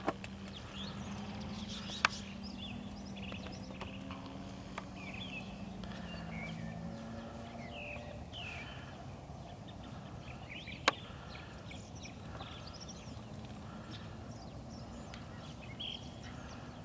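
Birds chirping on and off, over a steady low hum that stops about seven seconds in. Three sharp clicks stand out: one at the start, one about two seconds in and one about eleven seconds in.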